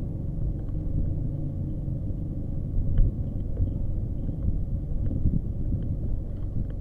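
Motorcycle engine running steadily at low revs, a low even hum with faint ticks above it.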